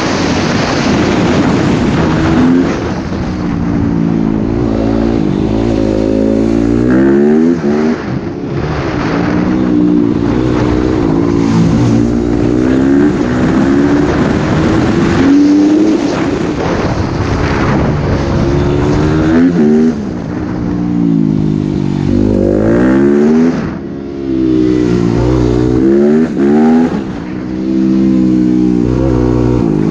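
Dirt bike engine revving hard, its pitch climbing and falling every few seconds as the throttle is opened and closed.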